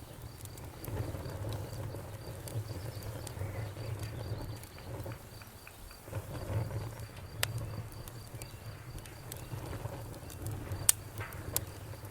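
Wood fire burning in a fireplace: a low steady rumble of flames with scattered crackles and pops, the loudest pop near the end.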